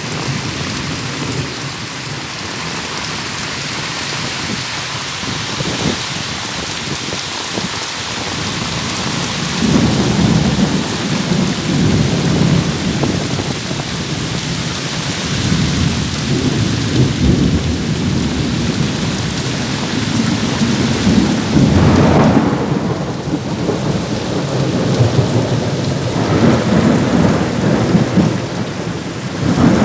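Heavy rain hissing steadily in a thunderstorm, with deep rumbling surges from about ten seconds in, loudest a little past twenty seconds and again near the end.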